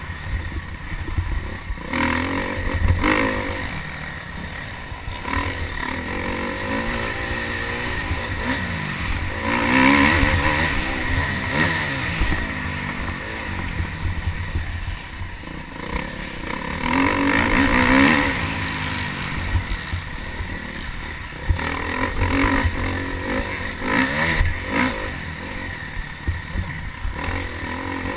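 Motocross dirt bike engine revving up and down as it is ridden around the track, its pitch repeatedly climbing and dropping over a steady low rumble, loudest in two long pulls about a third and two-thirds of the way through.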